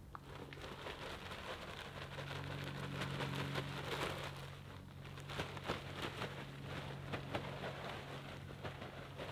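Tractor engine running steadily under a dense crackle of loose material shifting as the loader bucket pushes into it.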